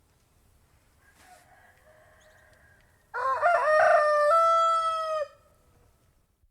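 Rooster crowing: a faint call from about a second in, then a loud crow about three seconds in, a few quick broken notes rising into one long held note that drops off at the end.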